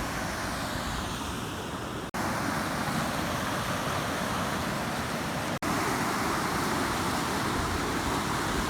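Steady rushing wind and water noise at the edge of a flooded lake, with wind buffeting the microphone. It cuts out for an instant twice.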